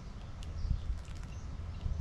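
A small songbird bathing, with a few soft water splashes and faint bird chirps over a steady low rumble.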